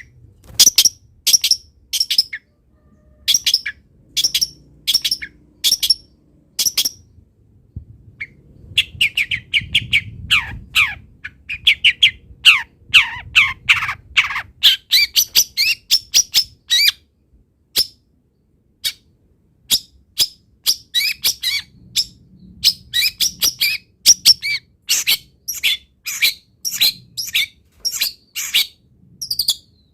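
Long-tailed shrike (cendet) singing loudly: short, sharp high notes about twice a second, then from about nine seconds in a fast run of falling notes lasting several seconds, then quick sharp notes again. This shrike is known for its loud voice and for weaving mimicked calls of other birds into its song.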